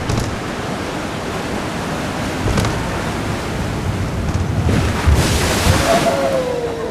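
Water rushing and splashing around the ride boat, with wind buffeting the microphone. The noise swells louder about five seconds in, and a faint falling tone comes in near the end.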